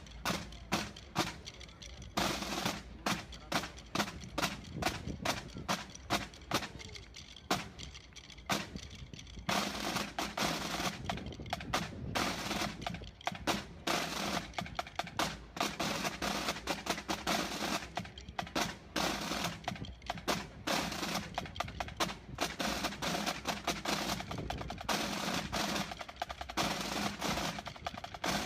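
Fireworks crackling and popping: separate sharp cracks a couple of times a second at first, turning into a dense, continuous crackle about ten seconds in.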